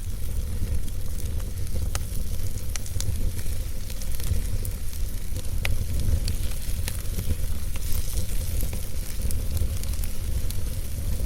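Wood fire burning in a fireplace: a steady low rumble of flames under a hiss, with frequent sharp crackles and pops from the burning logs.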